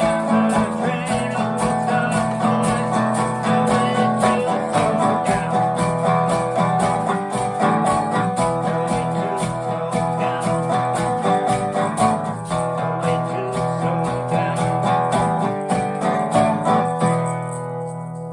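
Guitar strummed in fast, even strokes; near the end the strumming stops and the last chord rings out and fades.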